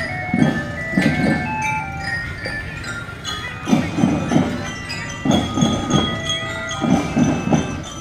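Marching drum band playing: a bell lyra (marching glockenspiel) rings out a melody of short notes over intermittent drum beats.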